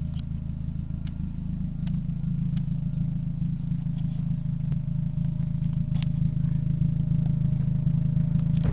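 A 2002 Dodge Neon's four-cylinder engine idling through its muffler: a steady low exhaust drone that grows a little louder about two seconds in.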